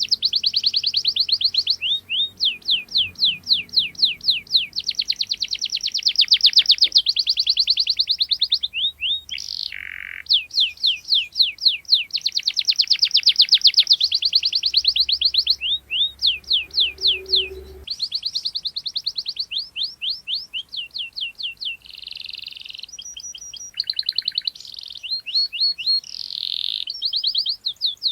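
Canary singing a long, continuous song of rolling trills: rapid runs of quick sweeping notes, the trill pattern changing every second or two.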